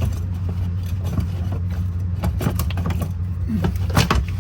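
Scattered light metallic clicks and clinks as a fuel line disconnect tool is worked on a quick-connect fuel line fitting to release the line. A steady low hum runs underneath.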